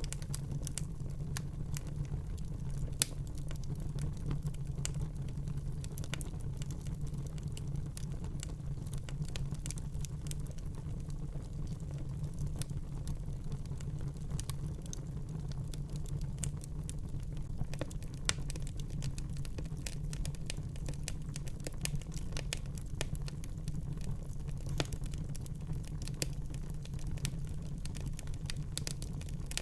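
Wood fire burning in a fireplace: a steady low rumble of the flames with scattered crackles and an occasional louder pop.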